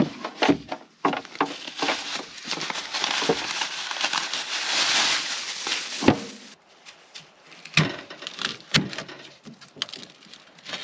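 Camp cooking gear being handled and set out: a quick run of clicks and knocks, a few seconds of rustling hiss, then a few separate clunks.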